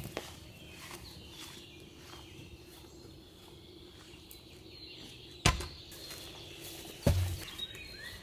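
Two heavy wooden thuds about a second and a half apart, like thick wooden boards being dropped or set down on the ground. The second thud is the deeper one.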